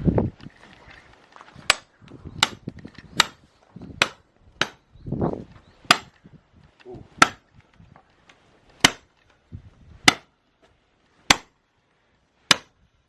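Axe chopping oak firewood: about a dozen sharp strikes in a steady rhythm, roughly one a second.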